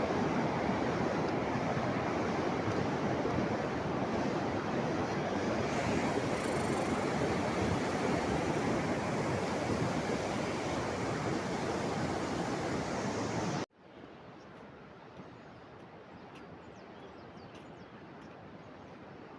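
Steady roar of rushing water, a rain-swollen torrent. It cuts off suddenly about fourteen seconds in, leaving a much quieter hiss with a few faint ticks.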